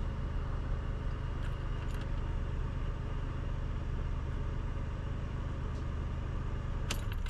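Supercharged 5VZ-FE V6 of a 1998 Toyota T100 idling with a steady low hum, cutting off abruptly near the end.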